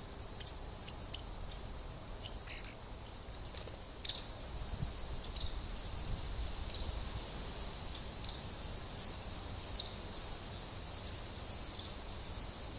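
Short, high chip notes from a small bird, spaced irregularly about one every second or two, over a steady high tone and low background rumble.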